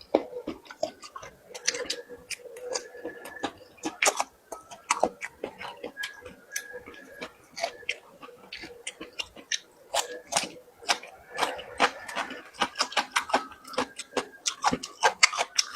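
Close-up eating sounds: a person chewing and biting with a dense, irregular run of wet mouth clicks and smacks.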